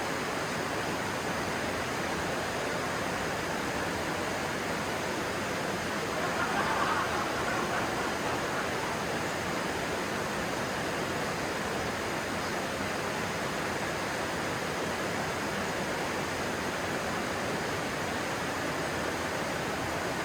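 Stream water rushing and splashing in a steady, dense hiss, swelling slightly about seven seconds in.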